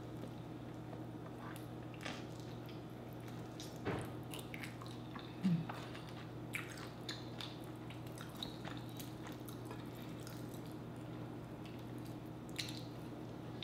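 Close-up eating sounds of a person chewing sauced chicken wings: small wet mouth clicks and smacks scattered through, over a faint steady hum.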